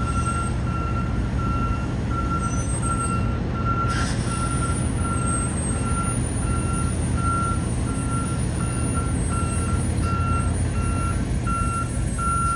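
A truck's reversing alarm beeping steadily, about two beeps a second, over the low rumble of its diesel engine: the truck is backing into its holding position.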